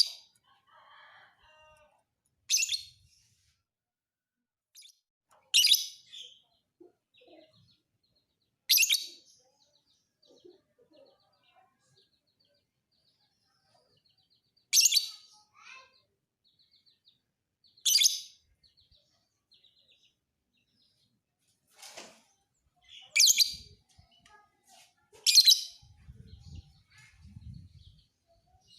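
Lovebird chirping: short, sharp, high-pitched bursts about every two to three seconds, with faint chatter between them.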